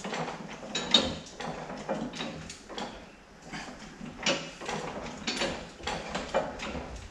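Hydraulic bottle jack in a pipe bender being pumped, its handle and the bender's metal parts clicking and knocking over and over, a sharp click about a second in. The jack is failing to lift and bend the pipe.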